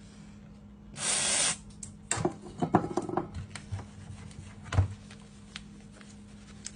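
A short hiss about a second in, then a run of small sharp clicks and taps and a single knock a little later, over a steady low hum.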